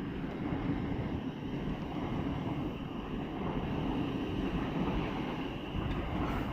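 Southern Class 377 electric multiple unit pulling away from the platform: a steady low rumble, with wind on the microphone.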